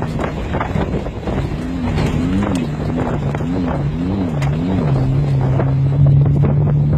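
Car engine running, its pitch rising and falling repeatedly for a few seconds before settling to a steady note, with wind buffeting the microphone.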